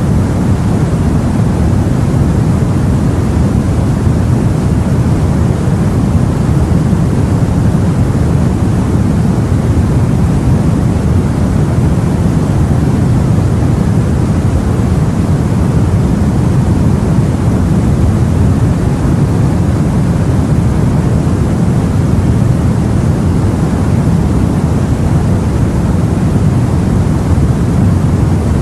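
Sea water and wind heard aboard a boat: a steady, low rumbling wash with no separate waves or other events standing out.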